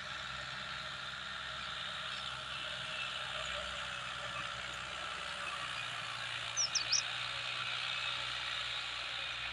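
Tractor engine running steadily as it pulls a trolley loaded with wood up a climb. A few short high chirps come about seven seconds in.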